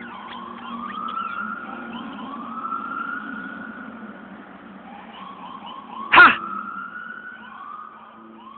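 A siren wails over and over, each rise in pitch levelling off about every second and a half, over a faint steady hum. A man's short loud shout of "Ha!" cuts in about six seconds in.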